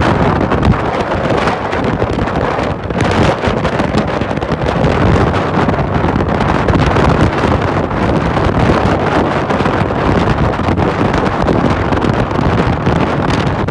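Heavy wind buffeting the microphone of a camera riding on a motorcycle at highway speed, with the motorcycle's engine and road noise running steadily underneath.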